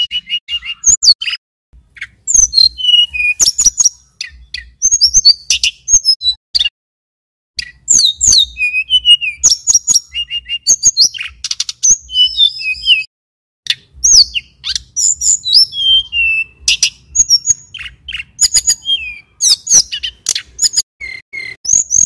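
Male hill blue flycatcher (tledekan gunung) singing in full song: rapid runs of high whistles, slurred notes and trills in phrases of several seconds, broken by short pauses.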